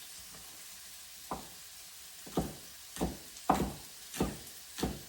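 Knife chopping green onions on a cutting board: about six irregular chops starting a second or so in. Underneath is the steady sizzle of garlic and carrot frying in oil in a cast iron pan.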